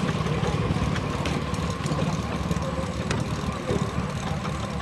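Belt-driven sawmill powered by a 1926 Keck Gonnerman steam traction engine, running steadily with a fast low pulsing, a steady whine and a few sharp ticks.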